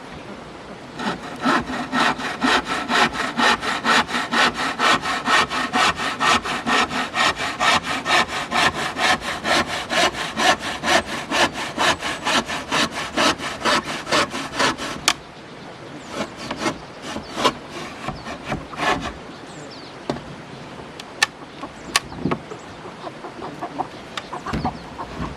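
Handsaw cutting wood in quick, even back-and-forth strokes, about three a second, stopping sharply about fifteen seconds in. Scattered light knocks and clicks follow.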